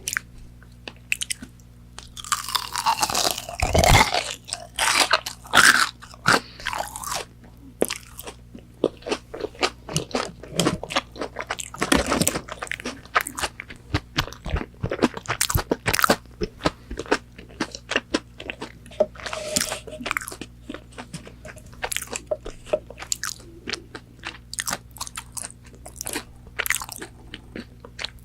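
Close-miked biting and chewing of crispy McDonald's chicken nuggets: a loud crunchy bite about three seconds in, then steady crunching chews with many sharp crackles.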